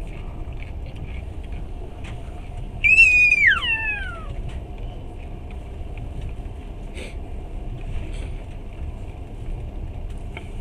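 Passenger train running, heard from inside the carriage: a steady low rumble of wheels on the rails with a few faint knocks. About three seconds in, a loud high-pitched squeal holds briefly and then slides down in pitch, lasting about a second and a half.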